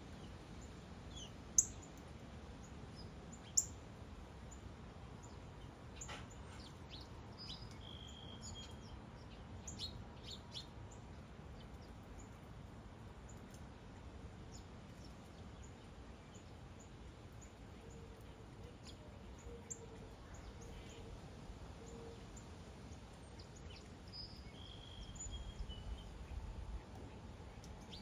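Wild birds chirping now and then, with short high chirps and a few brief whistled notes over a steady low background hiss. Two sharp chirps in the first few seconds are the loudest sounds.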